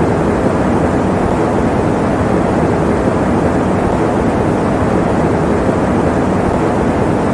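Electric fan running steadily, giving an even, low whooshing noise that does not change.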